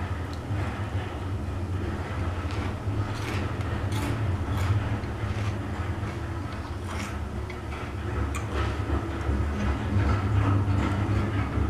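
A steady low mechanical rumble coming from outside, swelling slightly a few seconds in and again near the end, with scattered sharp crackles and clicks over it.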